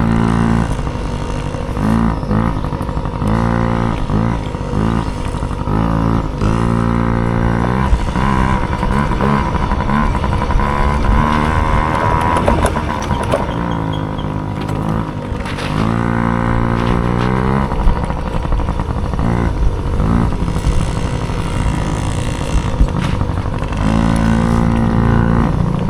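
A dirt bike engine revving hard and backing off over and over, its pitch climbing and dropping every second or two as the throttle is worked on a cross-country course, with a few sharp knocks in between.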